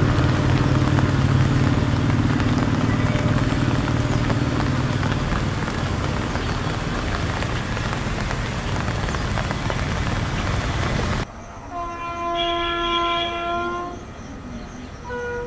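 A long passenger train running away on curved track, a steady rumble of wheels on rail that slowly fades. About eleven seconds in it cuts to an approaching WAP-7 electric locomotive sounding its multi-tone horn in one chord held about two seconds, then a short toot near the end.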